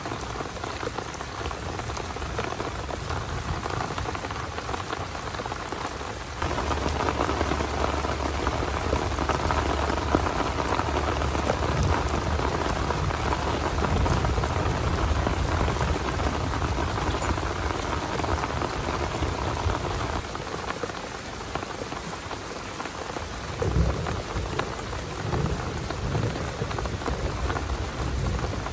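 Heavy rain pouring steadily, getting abruptly louder about six seconds in. A low rumble of thunder runs under it through the middle stretch, and there is a brief thump near the end.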